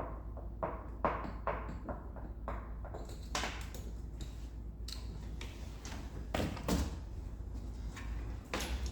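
Scattered clicks, taps and knocks of hand tools and parts being worked in a car's engine bay while a coolant hose is taken off its fitting, with the loudest knock a little past halfway.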